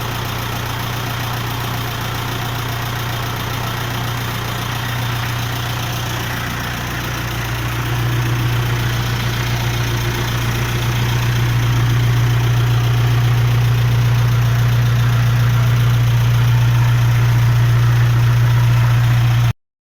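Japanese micro truck engine running at idle with a steady low hum. It gets louder about eight seconds in and again around twelve seconds, then cuts off abruptly just before the end.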